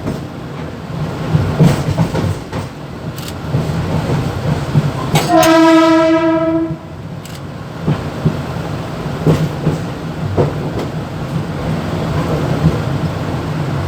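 Mumbai local electric train running, heard from the driver's cab: a steady rattle and low hum with scattered knocks and clatter. About five seconds in, a train horn sounds one loud, steady note for about a second and a half.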